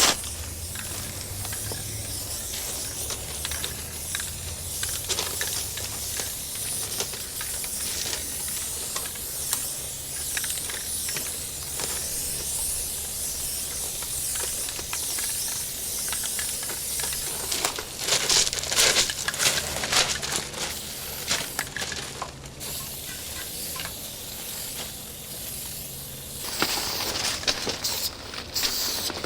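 Aerosol spray-paint can hissing in long continuous sprays, louder for a few seconds about two-thirds of the way through and again near the end.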